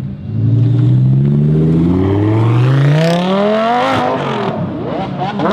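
A car engine accelerating hard, its pitch climbing through a gear change. It then drops away about four seconds in, and there is a quick sharp rev near the end.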